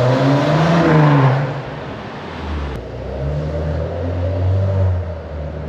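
Maserati Ghibli's 410 hp twin-turbo V6 being revved: a sharp rise in revs in the first second or so, then falling back to a deep, steady run with a smaller swell about four to five seconds in.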